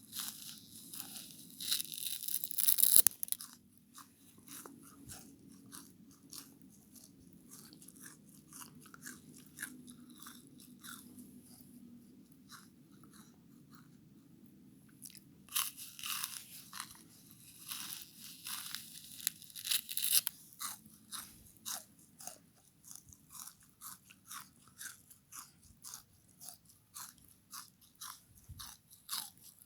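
Close-up crunching and chewing of a frozen bath sponge scrubber: loud crackly crunches in the first three seconds and again from about 15 to 20 seconds, with quieter, fairly regular chewing clicks between and after, over a faint steady low hum.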